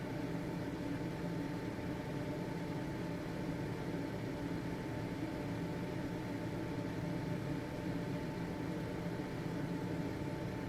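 A household ventilation fan running steadily: an even whir of moving air with a low motor hum and a faint steady whine.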